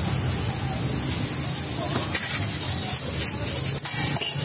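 Sausage slices and buns frying on a hot round griddle: a steady sizzle and hiss, with a low hum beneath.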